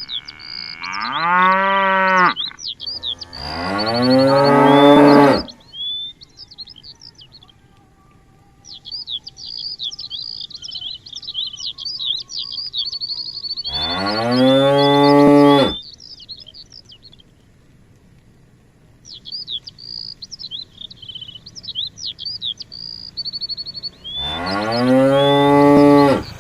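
Cows mooing, four long low calls of about two seconds each, each rising in pitch as it starts. Small birds chirp rapidly and continuously in the gaps between the calls.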